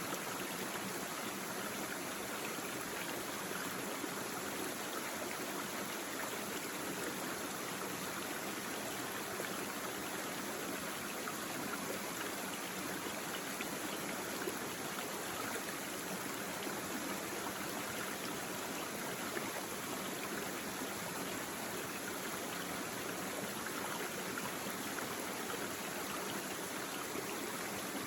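Small brook babbling and gurgling steadily as it flows over stones.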